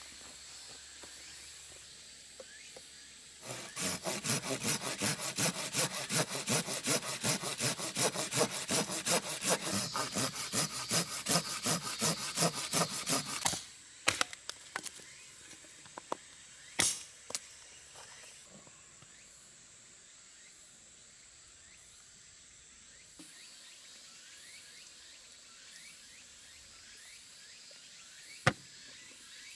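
A hand saw cutting through wood, in steady back-and-forth strokes of about three a second that run for roughly ten seconds and then stop. A few knocks of wood being handled follow, with one sharp click near the end.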